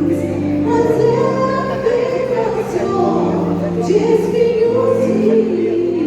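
Church vocal group singing a gospel hymn in harmony, holding long notes over steady low notes.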